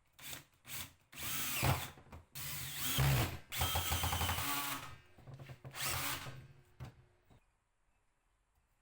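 A power drill running in several short bursts, its pitch rising and falling as it speeds up and slows down, with the longest run in the middle; it stops about two-thirds of the way through.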